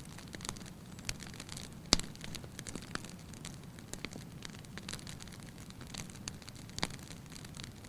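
Wood fire crackling in a fireplace: a steady low hiss of flames with scattered sharp pops, the loudest about two seconds in and another near the end.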